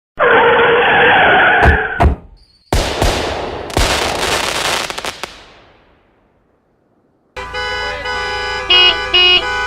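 Cartoon sound effects: a blaring, horn-like tone for about two seconds with sharp knocks, then a crash with thuds that fades away. After a short silence a tuneful jingle begins, with two short loud toots near the end.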